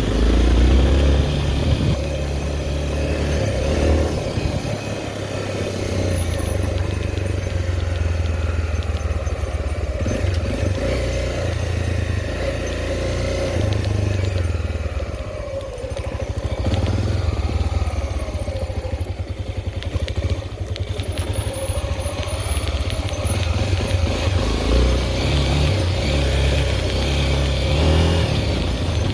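Honda XR 250 Tornado's single-cylinder four-stroke engine running under way as the motorcycle is ridden. The engine eases off around the middle and picks up again near the end.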